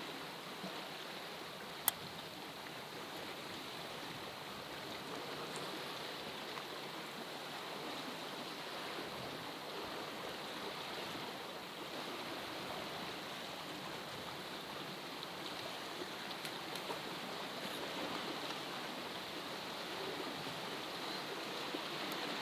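Steady rushing, water-like noise, with one sharp click about two seconds in.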